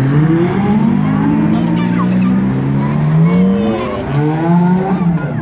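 Rally cars' engines accelerating away one after another, a red Ferrari convertible then a black Bentley Continental convertible, the engine note rising in pitch with each pull.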